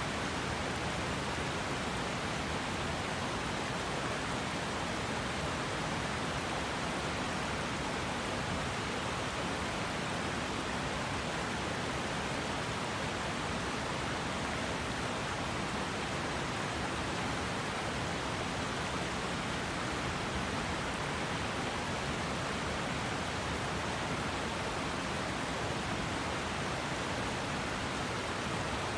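River water rushing over rocks in a steady, unbroken hiss with no other events.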